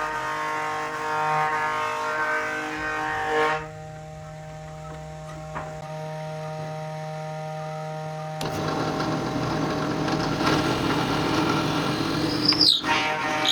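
Electric woodworking power tool motor running with a steady whine. It drops abruptly to a quieter hum about three and a half seconds in, then turns louder and rougher from about eight and a half seconds, as if cutting into wood.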